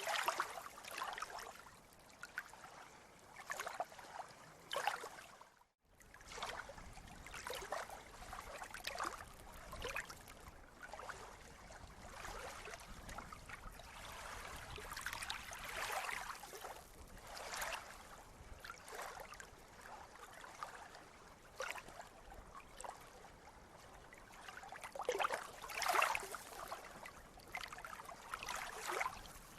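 Sea water lapping and splashing in irregular bursts, with one brief drop-out to silence about six seconds in.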